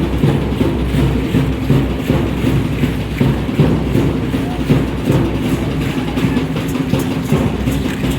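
Drumming and music for Aztec dancing, dense and continuous, over a low steady hum.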